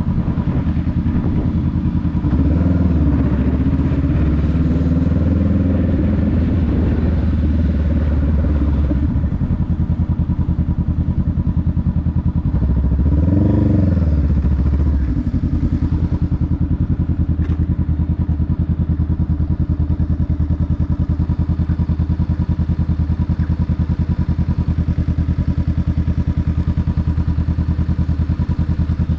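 Honda Rebel 500's parallel-twin engine running. Its pitch rises and falls through the first several seconds, climbs and drops back in a short rev about halfway in, then holds at a steady, even note for the rest.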